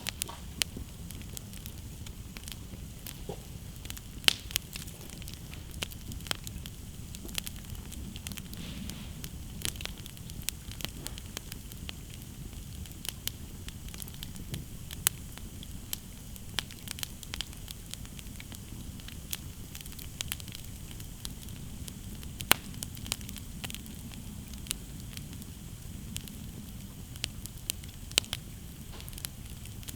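Wood campfire burning: a steady low rush of flames with sharp crackles and pops scattered throughout, a few of them loud snaps.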